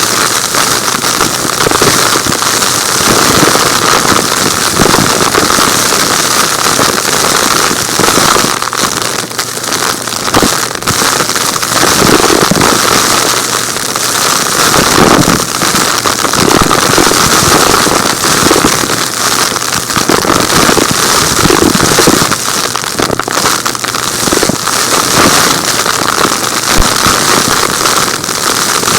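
Vacuum cleaner running loud with a steady motor whine, sucking up small rocks and grit that crackle and rattle without a break.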